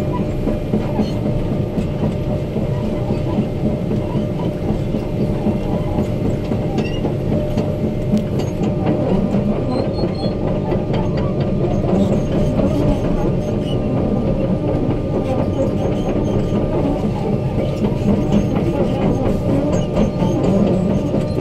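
Crawler excavator running at work: a steady diesel engine drone with a scatter of small metallic knocks.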